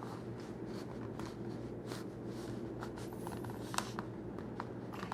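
Light, irregular clicks and taps from a kydex holster being handled and pressed into shape, over a steady low hum.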